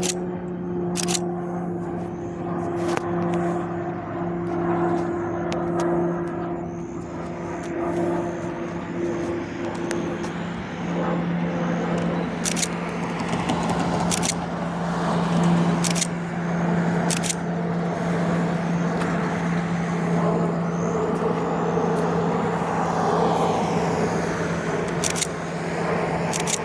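Pilatus PC-21 turboprop flying a circuit, a steady propeller drone that swells and eases as it passes. Several camera shutter clicks sound over it.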